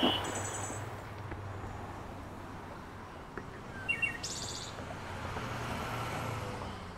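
Outdoor ambience with small birds chirping: a short high trill near the start, and more chirps and another high trill about four seconds in, over a steady low background hum.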